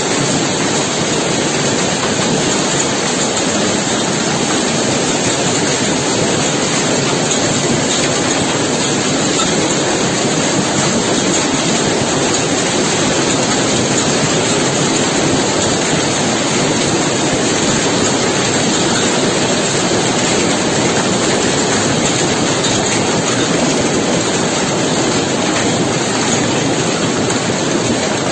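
Heavy downpour: a loud, steady, dense hiss of rain with no let-up.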